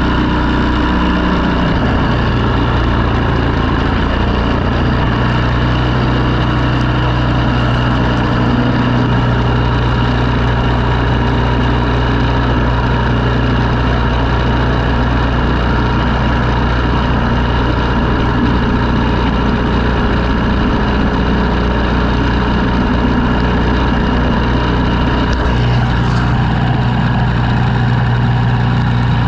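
An engine running steadily with a constant hum, its tone shifting slightly about 26 seconds in.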